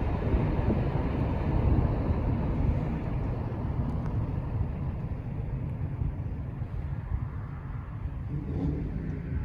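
Low, steady outdoor rumble that slowly fades, with no bird calls to be heard.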